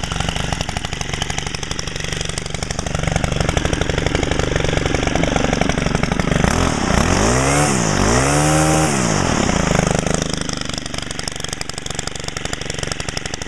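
Stihl FS90R trimmer's 4-MIX engine idling, revved up and back down twice in quick succession about halfway through, then settling back to idle. It runs louder and meaner with its muffler screen removed.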